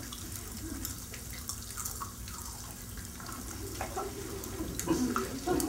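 Pop Rocks candy crackling and popping in many people's open mouths at once: a dense, irregular scatter of tiny pops and fizzing crackles.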